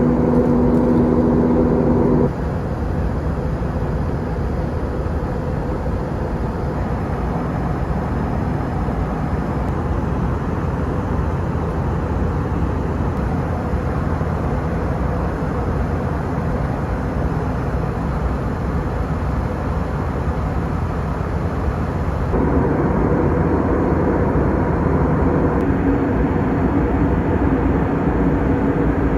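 Steady cabin noise of an Airbus A321 in its climb, its IAE V2500 engines running, with a low, even roar. A few steady humming tones stand out for the first two seconds and come back over the last seven seconds.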